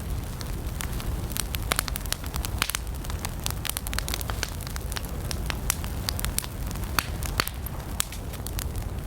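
Wood campfire burning with a steady low rumble and many sharp, irregular crackles and pops.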